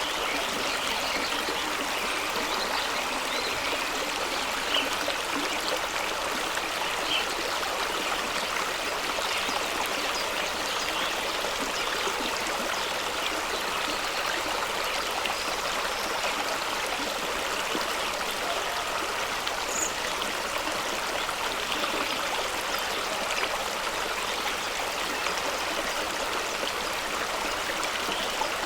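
Fast-flowing stream of water rushing and splashing over rocks in a steady, unbroken wash.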